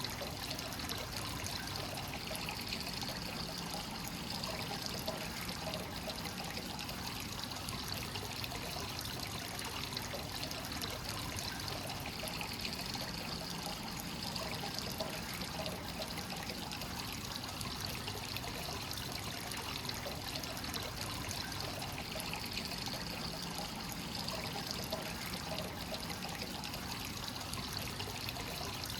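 Hot-spring water from a free-flowing source pouring continuously into a bath, a steady trickling and splashing flow.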